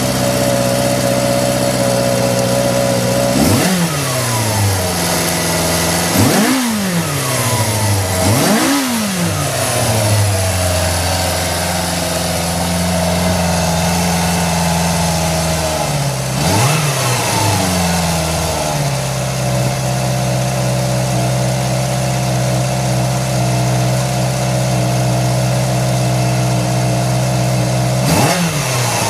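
Suzuki GSX-R400 (GK71B) four-cylinder engine idling through its exhaust, blipped about five times. Each blip makes the pitch rise sharply and fall straight back to a steady idle.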